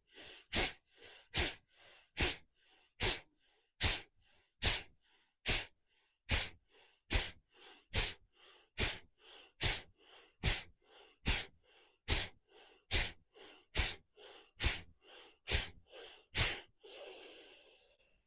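Bhastrika (bellows breath) breathwork through the nose: a fast, even series of forceful, explosive breaths out, each followed by a weaker breath in, a little more than one a second. Near the end comes one longer, fuller breath in.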